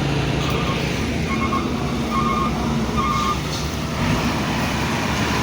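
A heavy vehicle's engine running with a reversing alarm beeping about once a second, the beeping stopping a little past halfway.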